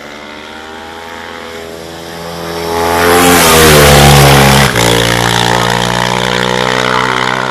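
Racing motorcycle engine at full throttle on a hillclimb run. It builds in loudness to its loudest about three to four seconds in as its pitch slides down, then breaks off sharply for an instant just under five seconds in and carries on hard.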